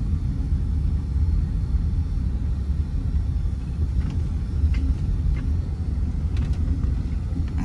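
Steady low rumble of a vehicle driving as it turns onto a farm, with a few faint ticks.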